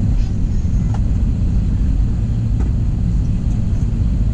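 Steady low rumble of cabin noise inside an Airbus A321 before takeoff, with a couple of faint ticks.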